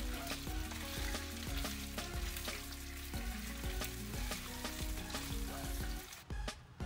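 Raw chicken pieces sizzling in hot oil in a non-stick wok while being turned with a spatula; the sizzling drops away about six seconds in. Background music with a steady beat plays throughout.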